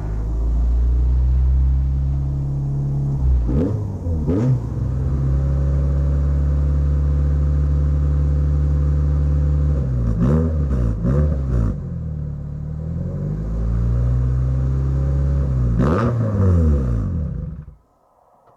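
Nissan K11 March engine idling, blipped up in short revs three times, then switched off near the end.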